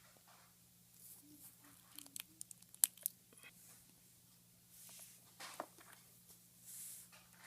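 Faint handling noises: a quick run of sharp clicks about two to three seconds in, then rustling near the end.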